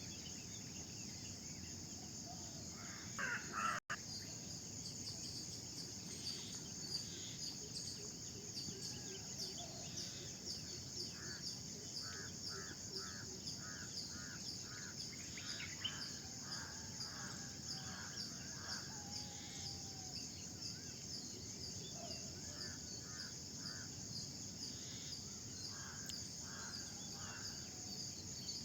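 Birds calling in the early morning over a steady, high, pulsing chirr of insects. A louder call comes about three seconds in, followed by a momentary dropout, and a bird repeats a short note several times in quick succession around the middle.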